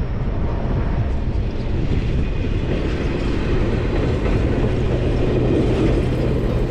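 Alaska Railroad diesel locomotive 3011 running past in a steady low rumble, with an engine hum that comes in about four seconds in.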